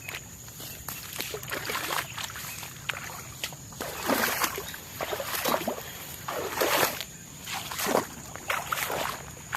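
Irregular sloshing, splashing strokes in water, roughly one every half second to a second and heavier in the second half, over a steady high-pitched insect drone.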